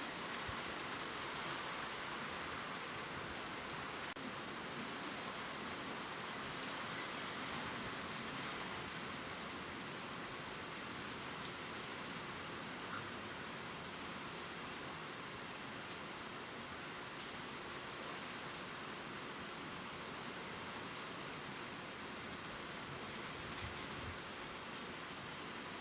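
Steady gentle rain pattering on leaves, with a few separate drop ticks standing out.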